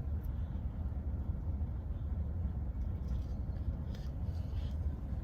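Steady low rumble inside a car's cabin, with a few faint soft rustling or mouth sounds around three to four seconds in.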